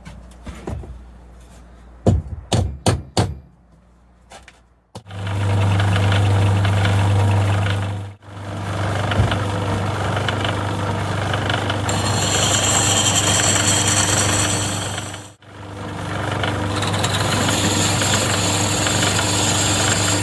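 A few sharp knocks, then a pillar drill running with a steady low motor hum, drilling holes in O1 tool steel knife stock. It stops briefly twice. A high-pitched whine joins in about twelve seconds in.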